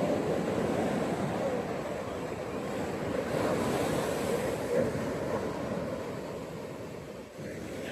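Ocean waves breaking and washing on a beach, a steady surf hiss that swells a few seconds in and eases off near the end.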